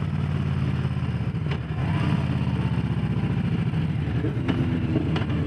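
Harley-Davidson Low Rider S Milwaukee-Eight V-twin engine running steadily under way, with wind rush over it. About four and a half seconds in, a second, higher engine note joins.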